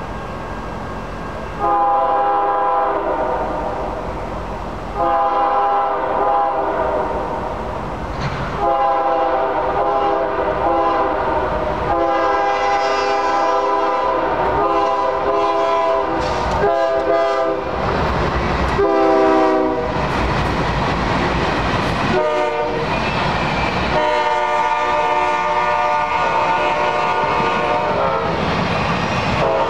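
Locomotive air horns sound a series of long blasts for a grade crossing as two trains approach. About two-thirds of the way through, a CSX intermodal freight train rumbles and clatters past on the rails. Near the end a second horn sounds over it.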